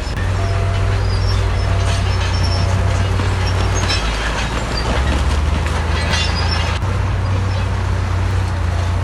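Crawler bulldozer's diesel engine running loudly, its pitch dropping briefly about four seconds in and then picking up again. Metallic clanking and squealing, typical of steel tracks, sounds over the engine.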